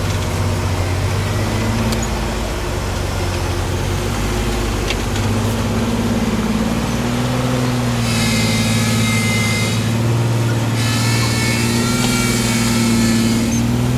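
Off-road truck engine running steadily at low revs, with a high-pitched whine joining over it about eight seconds in and fading near the end.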